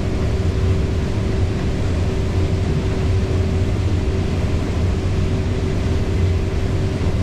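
Combine harvester running steadily while cutting corn, heard from inside the cab: an even low drone with a thin steady whine over it.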